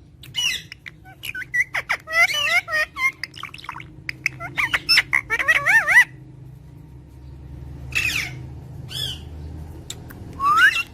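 A parrot calling: a fast run of squawks, chirps and warbling whistles, then after a short pause a few single calls and one rising whistle near the end.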